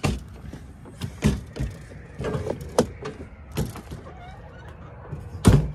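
Scattered knocks and clatter of gear being handled and packed away at a motorhome, with one loud thump about five and a half seconds in.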